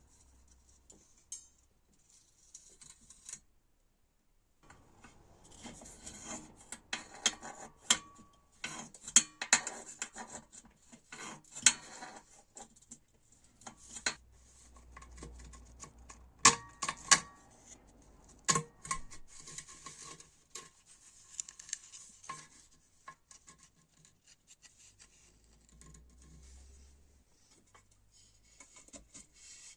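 Hand work on small metal parts: irregular clicks and sharp metallic clinks, some ringing briefly, mixed with scraping and rubbing. The clinks cluster densely in the middle and come more sparsely toward the end.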